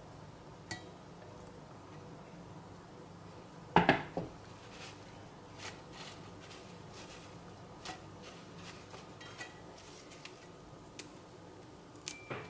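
Dishes and cutlery clinking and knocking: scattered light clicks, a louder double knock about four seconds in, and a short ringing clink near the end.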